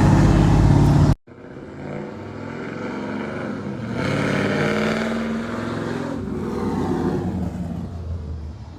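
Pickup truck engine running through its new, louder exhaust with a steady low drone, cut off abruptly about a second in. Then the engine is heard more quietly as the truck is driven, rising in pitch as it accelerates and easing back toward the end.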